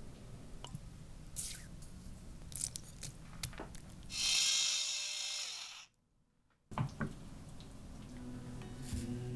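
Kitchen work sounds: light clicks and knocks of utensils, then a loud rushing hiss for about two seconds that cuts off abruptly, followed by more small knocks.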